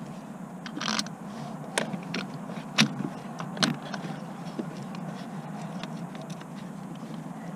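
Hand tools and metal parts clinking during work on a car: a handful of sharp clicks and knocks in the first four seconds, then fainter scattered ticks, over a steady low hum.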